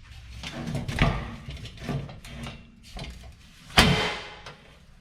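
Clattering and knocking of steel parts being handled on a welded steel table frame, with one sharp ringing clank just before four seconds in.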